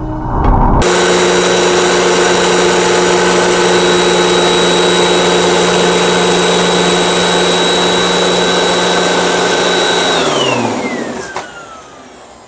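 Hoover WindTunnel 3 High Performance bagless upright vacuum cleaner running with a steady whine, starting abruptly under a second in. About ten seconds in it is switched off and its whine falls in pitch and fades as the motor and brushroll spin down.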